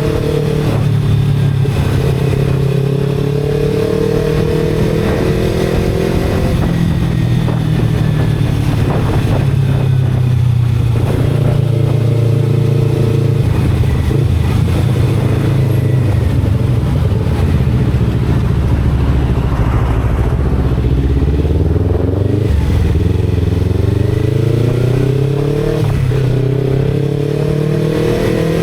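Motorcycle engine running on the move. Its pitch climbs under throttle and drops back at gear changes several times, with road and wind rumble underneath.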